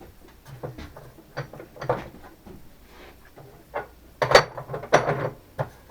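Scattered metal clicks, knocks and short scrapes of hand work at a milling machine as the table locks are tightened down, with the loudest knock about four seconds in and a rattling clatter just after.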